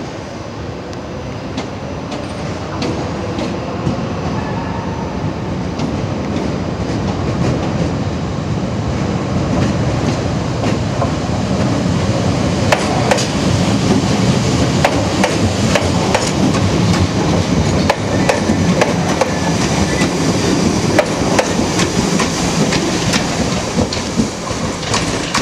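Class 314 electric multiple unit moving along the platform and passing close by, its wheels clicking over rail joints and points. The rumble grows louder over the first ten seconds or so and stays loud while it passes.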